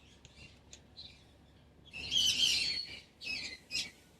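Pet cockatoo giving a loud, harsh squawk about two seconds in, lasting about a second, followed by two shorter calls; a few faint chirps and clicks come before it.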